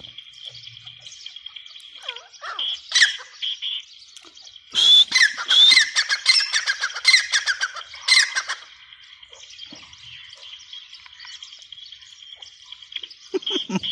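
Francolin (teetar) calling: a short call about three seconds in, then a loud run of rapid, harsh repeated notes lasting about four seconds. Steady high-pitched chirping runs behind it.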